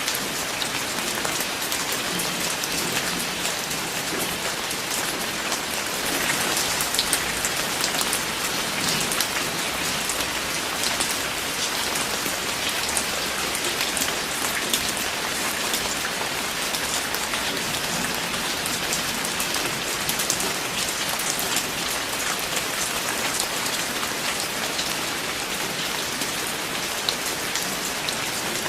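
Steady rain falling on a surface: an even hiss with many individual drops pattering sharply throughout.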